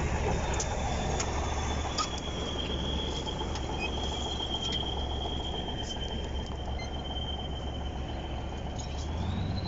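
Large diesel tractor engine running steadily: a low drone with a high whine that falls in pitch near the start and rises again near the end. A few faint clicks over it.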